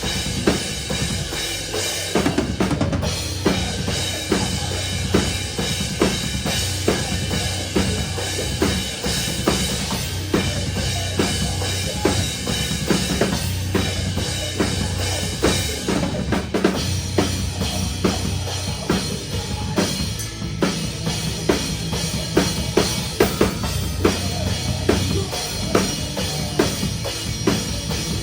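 Metalcore band playing live, heard from beside the drum kit: bass drum, snare and cymbals loud and up front in a steady driving beat, over sustained distorted guitars and bass.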